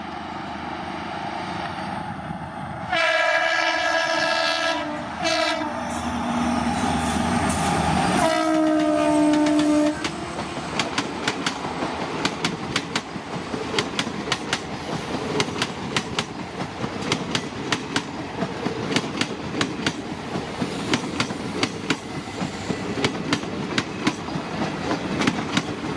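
Indian Railways diesel locomotive passing at high speed, sounding its horn in long blasts that drop in pitch as it goes by. Then the coaches' wheels clatter over the rail joints in a fast, even rhythm of clicks.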